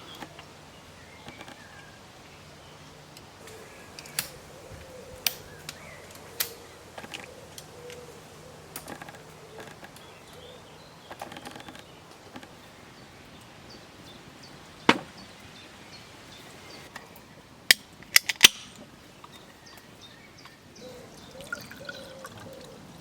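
Sharp woody snaps and pops of a campfire, spaced several seconds apart, with a quick run of three cracks about three-quarters of the way through.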